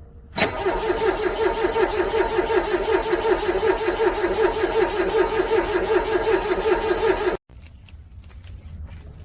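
A cold car engine cranking on its starter without catching: a steady, rhythmic churning that starts suddenly about half a second in, runs about seven seconds and cuts off abruptly.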